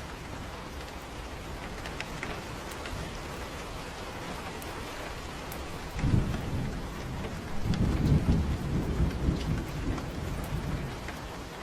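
Steady rain falling with scattered drop ticks, and a thunder roll: a sudden low rumble about halfway through, then a louder rolling rumble that fades away near the end.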